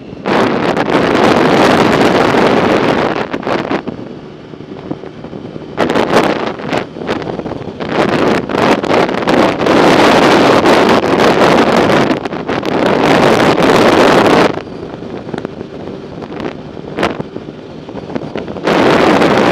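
Wind buffeting the microphone of a camera riding along on a bicycle: a loud rushing that comes in long stretches, easing off for a few seconds twice, about four seconds in and again near the end.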